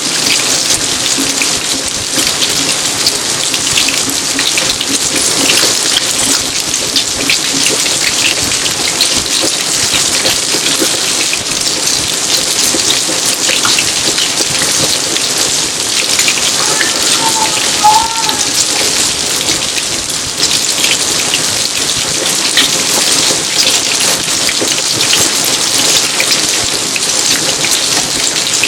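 Steady rain falling on garden surfaces: an even hiss dense with the patter of individual drops. A faint short chirp is heard about two-thirds of the way in.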